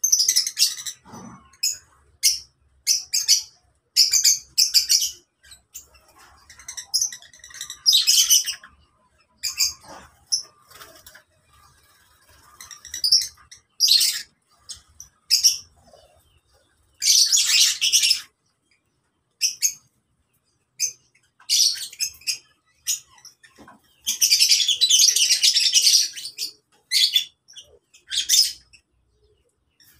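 Lovebirds chattering and screeching in short shrill bursts with brief gaps between them. The longest, loudest outbursts come a little past halfway and again near the three-quarter mark.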